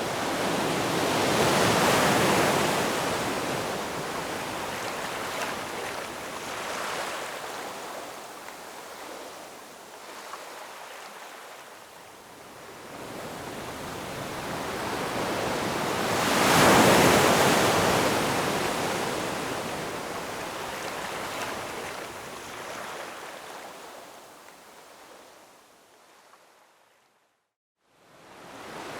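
Ocean waves surging and washing in, two big swells about fifteen seconds apart with quieter wash between them. The sound fades out to a brief silence near the end, then starts again.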